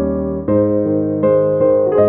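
Background music on electric piano: sustained chords changing about every half second to a second.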